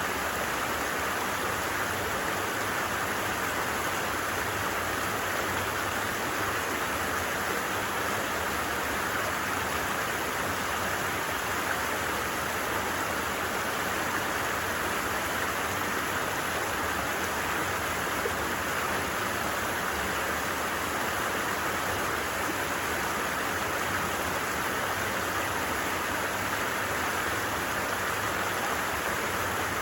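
A flowing stream running steadily, an even rushing babble of water with no change.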